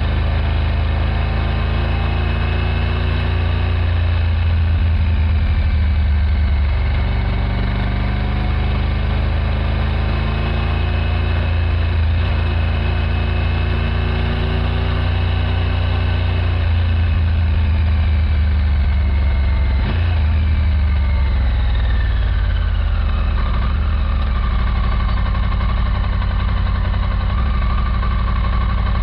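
A 2024 Triumph Tiger 900 GT Pro's inline-three engine running while it is being run in. The engine note holds fairly steady, then falls away over several seconds about two-thirds of the way through, with a single sharp knock around that point.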